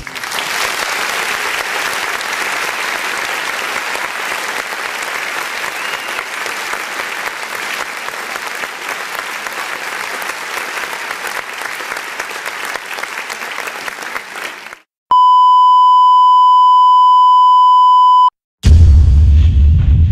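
A string of sound effects: about fifteen seconds of applause, then a steady beep held for about three seconds like a censor bleep, then a loud deep boom near the end.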